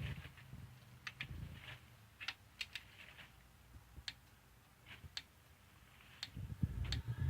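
Scattered, irregular sharp metal clicks from hand tools on the cylinder head bolts of a Chevy 3.1 V6 being retorqued, with low handling thumps near the end.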